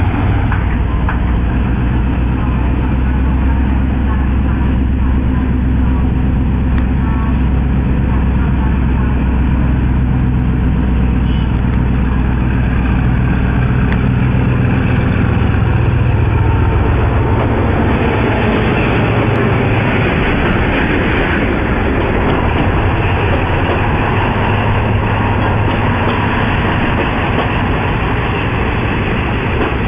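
Diesel locomotive engines running with a steady low drone as the trains approach. About halfway through this gives way to the rushing rattle of passenger coaches rolling past on the rails.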